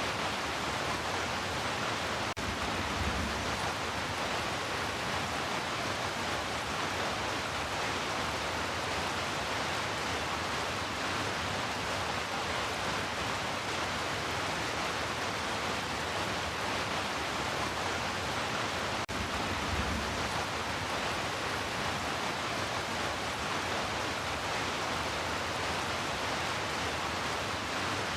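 Heavy rain falling in a steady, even hiss. Twice a brief low thud sounds under it, about three seconds in and again near twenty seconds.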